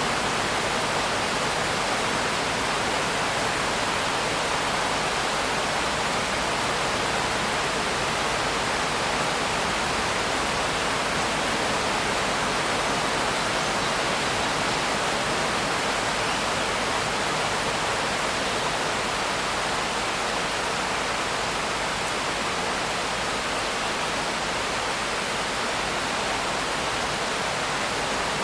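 Steady rain, an even hiss with no pauses, single drops or changes in level.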